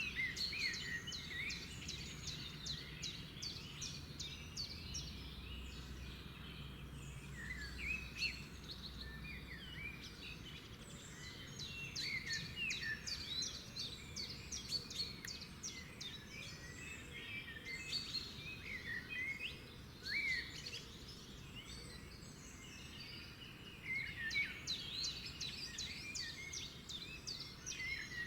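Several songbirds singing together, a mix of rapid trills and short chirps that come in bouts with brief lulls between them. Beneath them is a low rumble that fades out about ten seconds in.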